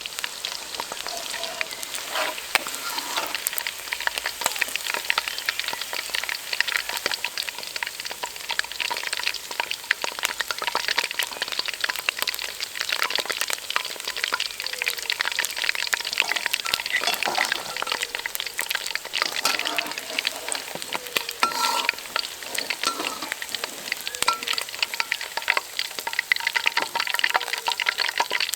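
Food deep-frying in hot oil: a dense, steady crackle and sizzle.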